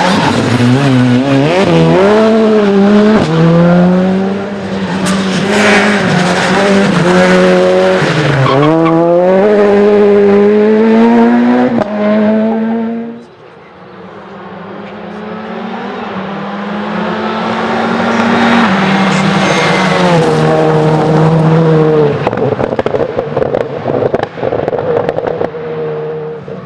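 Rally car engines at full throttle on a special stage, revs rising and falling with each gear change and lift. About thirteen seconds in the sound drops away sharply, then another rally car's engine builds up, passes close and fades away.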